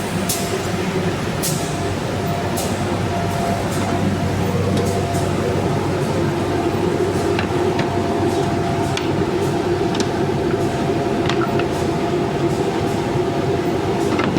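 UV finishing line machine running, a steady mechanical drone with a held hum, and irregular light clicks and knocks scattered through it.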